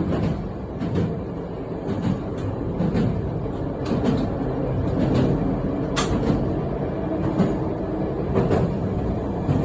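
Passenger train running along the track, heard from the rear of the train: a steady rumble with scattered clicks of wheels over the rails, one sharper click about six seconds in.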